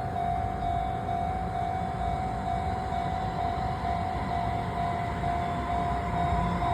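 TRA EMU500 electric multiple unit pulling out of a station, a low rumble of wheels and running gear. Over it an electronic warning tone pulses steadily, about two beats a second.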